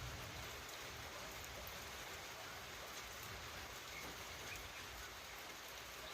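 Steady, even hiss of background noise with a few faint, short chirps and clicks scattered through it.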